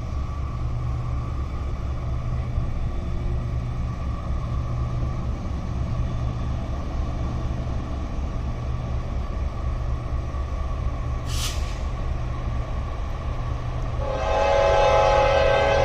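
Steady low rumble, then about fourteen seconds in an approaching freight locomotive's air horn starts blowing a loud multi-note chord. A brief hiss comes a few seconds before the horn.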